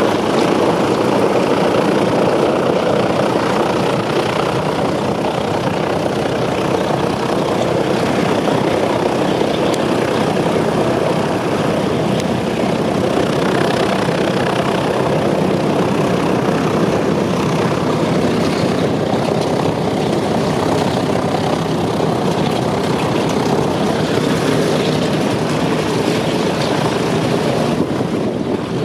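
Douglas Dakota (DC-3/C-47) twin radial piston engines running steadily with propellers turning, a loud even drone.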